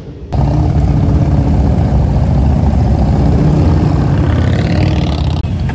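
Loud motorcycle engines running steadily at low revs, starting abruptly about a third of a second in.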